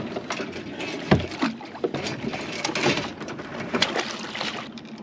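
Crabs and a crab pot being handled on a kayak: a busy run of clicks, scrapes and knocks, with a heavy thump on the hull about a second in.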